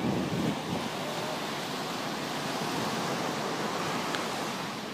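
Steady rush of ocean surf breaking on the shore.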